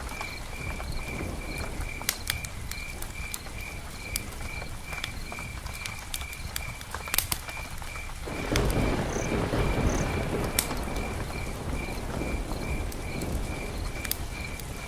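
Night rain-and-campfire ambience: a steady patter of rain with scattered sharp crackles and pops, under a high chirp repeated evenly about three times a second. About eight seconds in, a louder rushing wash of noise swells up and holds.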